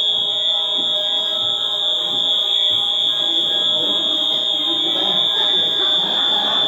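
A high-pitched electronic alarm tone held steady without a break, sounding for the earthquake drill. Voices murmur faintly beneath it toward the end.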